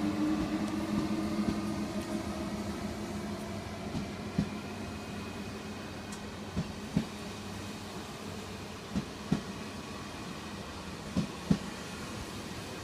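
Eurostar Class 373 train pulling away from the platform: its electric traction drive hums with a steady tone that fades as it draws off, while a few sharp clicks come from the wheels running over rail joints and points.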